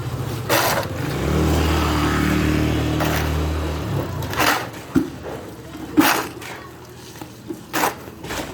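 An engine runs steadily for about three seconds, then fades, followed by several short sharp knocks and clatters.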